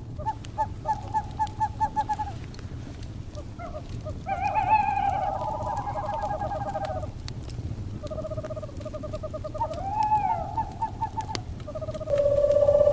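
Owls calling over a crackling fire: a run of quick pulsing trills and rising-and-falling hoots, with sharp pops from the burning wood and a low rumble underneath. A louder, steadier trill starts near the end.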